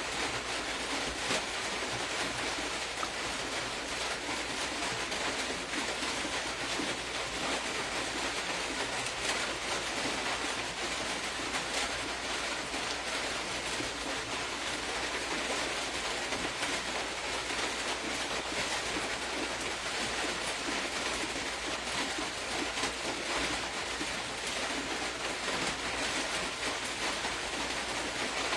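Steady background hiss with a fine crackle, holding even throughout, over a low steady hum.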